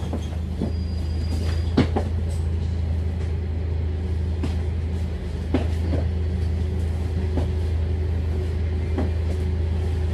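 Scania K310UD double-decker bus's five-cylinder diesel engine running with a steady low drone, heard from inside the cabin, with a few sharp knocks and rattles from the bodywork.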